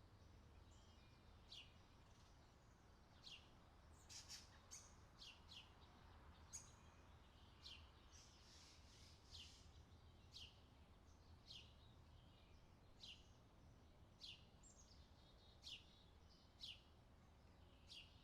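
Faint forest birdsong: short, high chirps that sweep downward, repeating about once a second, over a low steady hum.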